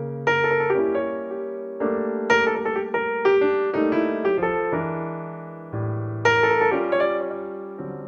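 Piano music: chords and melody notes struck and left to ring, a new phrase every second or so.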